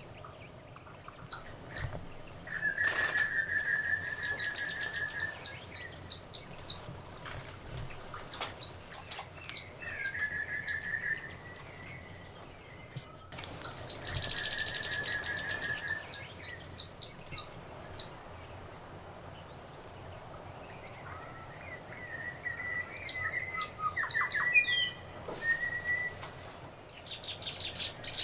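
Wild birds calling: bursts of trilled, chattering calls, with rapid series of thin, high notes between them.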